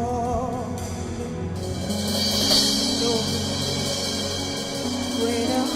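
Gospel worship band playing a slow instrumental passage between sung lines: steady bass and keyboard chords with drum kit, a cymbal swell about two seconds in, and brief vocal ad-libs near the start and end.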